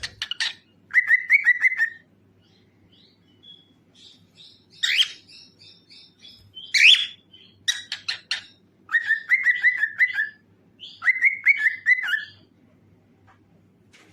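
Cockatiel singing: loud sharp upswept whistles alternating with warbled, wavering phrases around 2 kHz, repeated several times with softer chirps in between.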